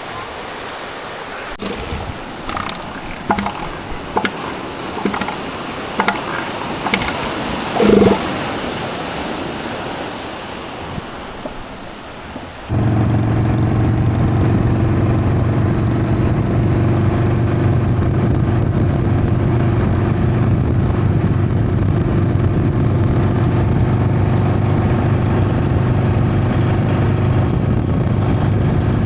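Outdoor hiss with scattered knocks and brief clatter. About a third of the way in, a Harley-Davidson Sportster's air-cooled V-twin engine comes in suddenly and runs at a steady, unchanging note.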